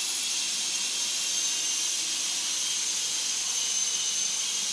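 E-sky coaxial RC helicopter's electric motors and rotors running, a steady high-pitched whine over an airy hiss.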